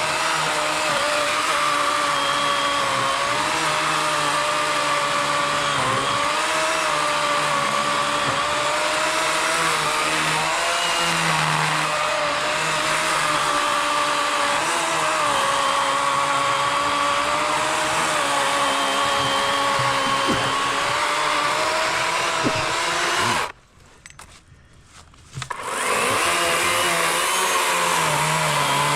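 Cordless 40-volt Worx electric chainsaw with an 18-inch Oregon bar cutting through a large log, its motor whine wavering in pitch as it cuts. About two-thirds of the way through it stops for a couple of seconds, then starts cutting again.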